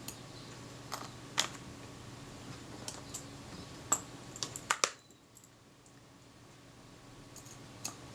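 Small metal clicks and taps of fine tools working on a camera's film-advance mechanism while a tiny return spring is being fitted onto a ratchet pawl. A few isolated clicks, then a quick run of several sharp clicks about four to five seconds in, and one more faint click near the end.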